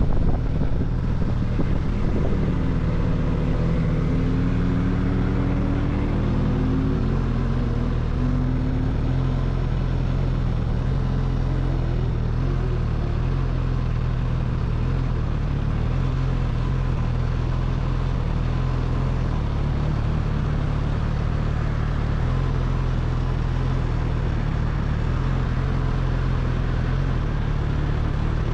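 Suzuki GSX-S1000GT's inline-four engine running under way, heard from the rider's position. Its pitch shifts up and down over the first several seconds, then it settles into a steady drone.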